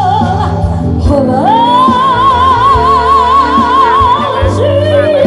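A woman singing a ballad over instrumental accompaniment. About a second and a half in, she slides up into one long high note with wide vibrato, holds it for nearly three seconds, then drops to a lower phrase near the end.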